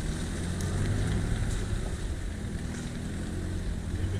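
Off-road SUV engine running at low revs, a steady low rumble.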